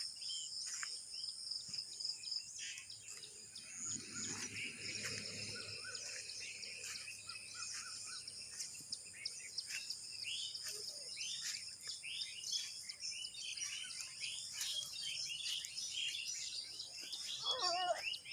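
Many birds chirping, over a steady high insect drone. A short wavering call comes near the end.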